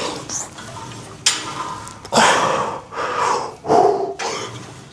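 Metal clink of a cable machine's weight-stack plates, followed by heavy, gasping breaths from a lifter recovering between drop sets.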